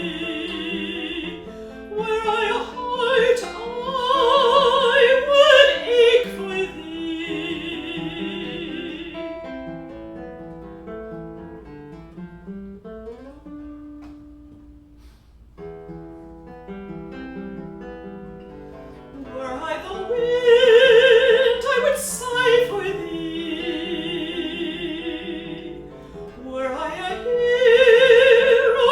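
Classical art song for voice and acoustic guitar: a trained singer with a wide vibrato over plucked guitar, a quieter guitar-alone passage in the middle, then the voice comes back.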